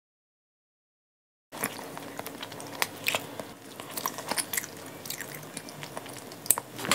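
Dead silence for the first second and a half, then a person chewing a mouthful of tuna, with many small wet clicks and smacks of the mouth.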